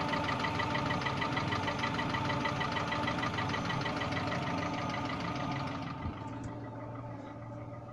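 Car engine idling cold with a rapid knocking rattle, which thins and gets quieter about six seconds in. The knock appeared after a brief oil starvation and nearly goes away when the engine is hot; the owner suspected the connecting-rod bearings.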